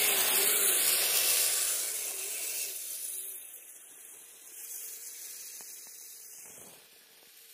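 Hiss of an RC tracked snow vehicle's tracks sliding across icy snow, with a faint wavering electric motor whine, fading steadily as the vehicle drifts away.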